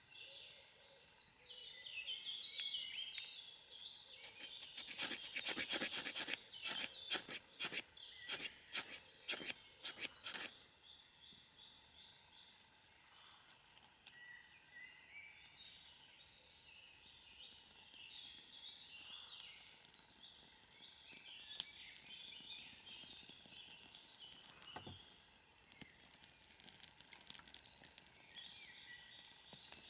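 Several songbirds chirping and singing back and forth. About five seconds in, a rapid run of sharp clicks lasts roughly five seconds, and a single soft thud comes near the end.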